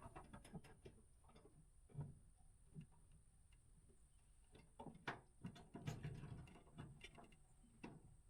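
Faint, irregular light clicks and knocks, with a few slightly louder ones around two, five and six seconds in.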